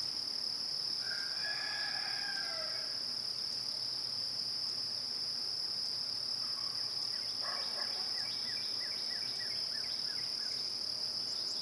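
Crickets trilling steadily at a high pitch. A distant rooster crows once, about a second in, and a bird gives a quick run of short falling chirps in the second half.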